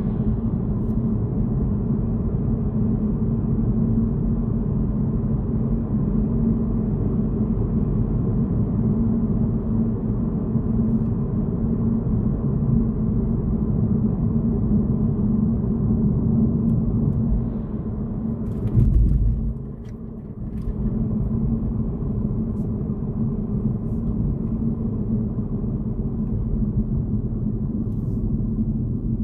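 Car driving at road speed: a steady low rumble of tyre and engine noise. About two-thirds of the way through there is a louder low thump, then the sound briefly drops before the rumble resumes.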